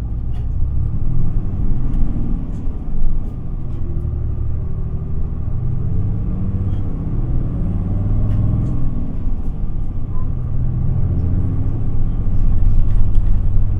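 Isuzu Erga city bus heard from inside the passenger cabin while under way: its diesel engine pulls under load, rising in pitch as the bus gathers speed, over a steady low road rumble. It grows louder near the end.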